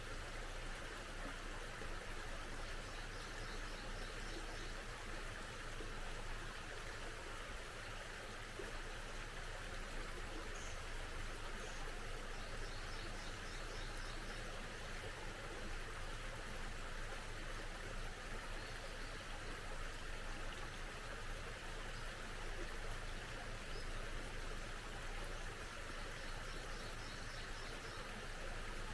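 Small stream flowing steadily. A bird sings high, quick trilling phrases faintly over it three times.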